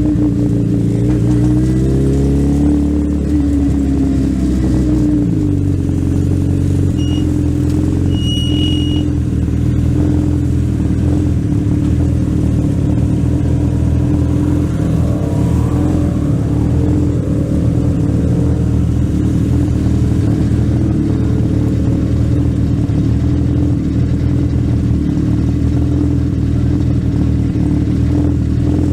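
Legend race car's Yamaha four-cylinder motorcycle engine heard onboard, its revs falling over the first five seconds, then running steadily at low, even throttle, as on a slow lap after the race.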